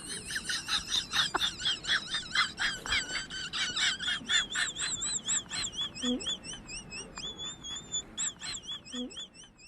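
A bird chirping, a fast run of short high chirps at about three or four a second, crowded and overlapping at first and thinning to one clear series later on.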